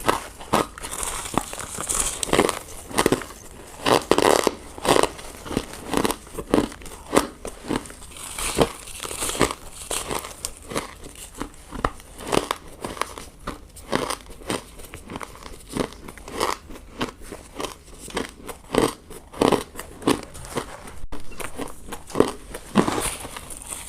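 Close-miked bites into ice: a steady run of sharp crunching bites and chewing, about one or two a second.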